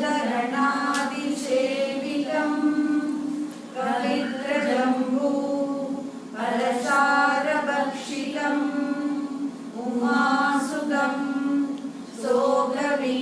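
Group of voices singing a prayer song in long, held phrases with short breaks between them.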